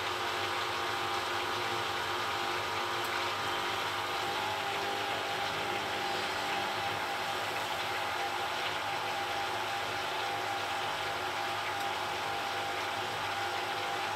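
Beko front-loading washing machine running mid-cycle: a steady mechanical hum with a constant motor whine over the drum's whir.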